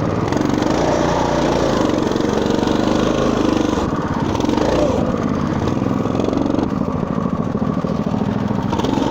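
Motoland RT200 mini off-road bike's engine running under load at fairly steady revs as it churns through snow and mud.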